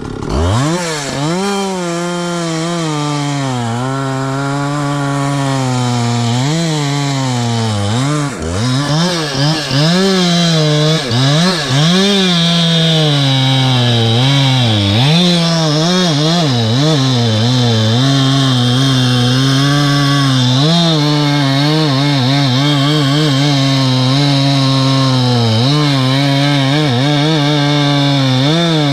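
Two-stroke chainsaw throttled up to full speed, cutting wood. The engine note sags and recovers again and again in the first dozen seconds as the chain takes load, then holds mostly steady at high revs.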